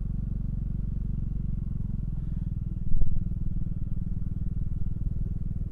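Honda Fusion big scooter's single-cylinder four-stroke engine running at a steady pace under way, with a short loud thump about three seconds in.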